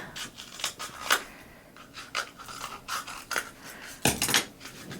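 Scissors cutting paper: a run of short, irregular snips, with a louder, longer cut about four seconds in.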